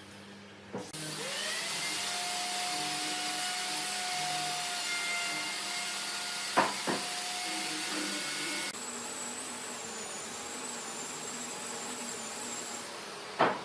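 An electric workshop motor, a power tool or shop vacuum, starts about a second in and runs steadily with a rushing noise and a whine that rises as it spins up, changing tone about two-thirds of the way through. A couple of sharp knocks come near the middle and one just before the end.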